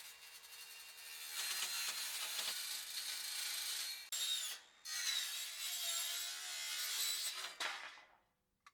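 Tool working on 2x4 timber: a steady rasping of wood being cut or worked, with two short breaks about four seconds in. It stops near the end.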